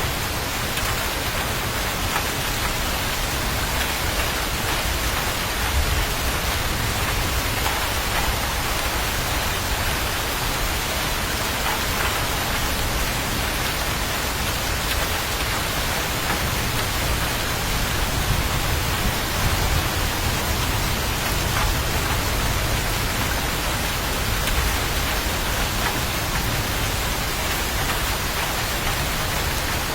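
Steady heavy rain: a dense, even hiss of drops falling on a surface, unchanging throughout.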